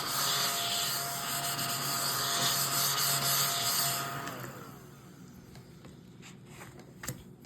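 Scratch-off lottery ticket being scratched, a steady rasping scrape across the card's coating that stops about four seconds in; a few faint clicks follow.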